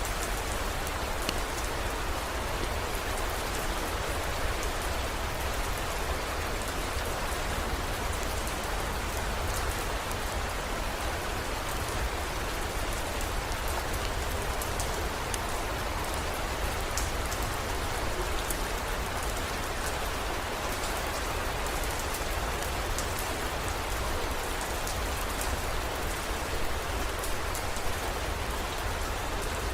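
Steady heavy rain, with many fine, sharp drop ticks over an even hiss and a constant low rumble underneath.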